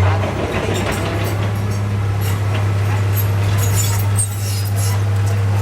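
Heavy earthmoving machine's diesel engine running at a steady pitch, with scattered metallic clinks and clatter over it.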